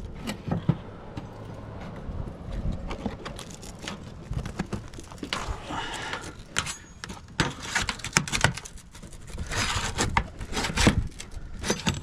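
Irregular scraping, clicking and knocking as a roof shingle is pried and worked loose, with a busier run of sharp knocks in the second half.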